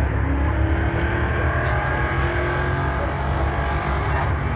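Drag-racing truck engines running, with a rising pitch through the first couple of seconds as one accelerates over a steady low rumble.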